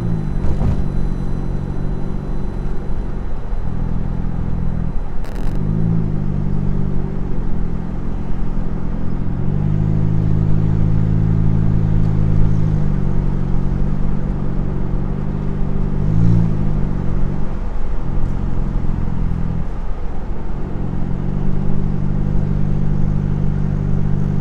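Seventh-generation Honda Civic's non-VTEC four-cylinder engine driving through open pipe with the muffler and resonator deleted. The engine note drops and climbs back with gear changes a few times, then holds steady as the car settles toward cruising speed. A brief click about five seconds in.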